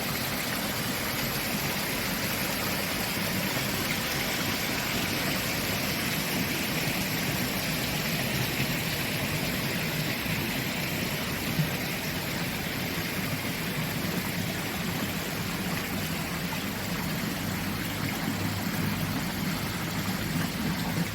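Running water from a spring-fed water feature, a steady even rushing that cuts off suddenly at the end.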